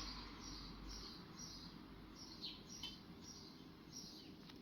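Faint bird chirping: short high chirps that drop in pitch, repeated about twice a second over quiet room tone.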